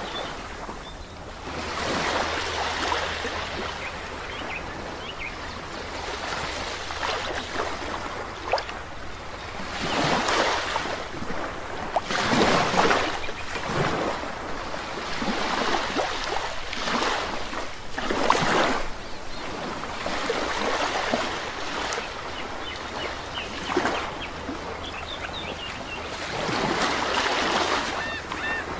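Sea waves breaking and washing up a shore one after another, every few seconds. Small birds chirp faintly toward the end.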